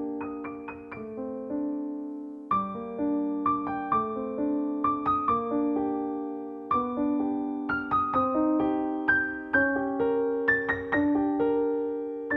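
Solo piano music: single notes struck one after another over held lower chords, each note ringing and fading.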